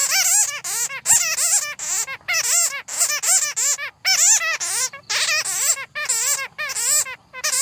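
Bats chattering: rapid, high, wavering squeaks in bursts, each burst under a second long with short breaks between them.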